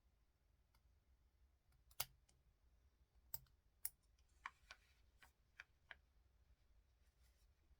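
Faint campfire crackling: scattered, irregular sharp pops, the loudest about two seconds in, over a low steady hum.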